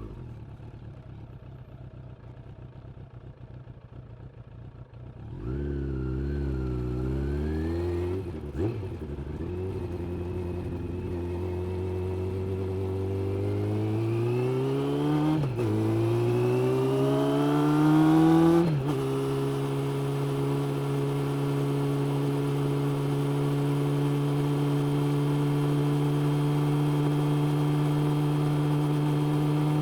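Suzuki GSX-600F's inline-four engine idling quietly, then pulling away about five seconds in. Its pitch rises through the gears, with upshifts about a third and about half of the way through and again near two-thirds, then it settles into a steady cruise.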